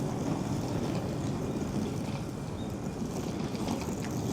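Steady outdoor city street ambience: an even low rumble with no single distinct event standing out.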